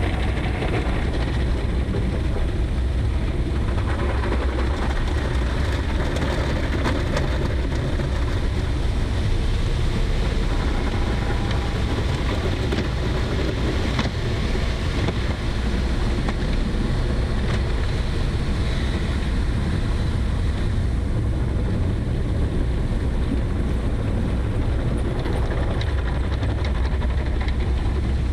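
A vehicle driving: a steady, low engine and road rumble with wind noise.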